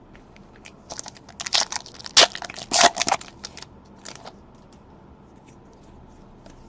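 Crinkling and crackling of a foil trading-card pack wrapper being torn open and crumpled by hand, a burst of about two seconds starting a second in.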